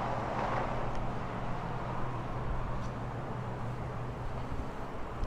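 Vehicle noise: a steady low engine hum from an idling car over a wash of road and traffic noise.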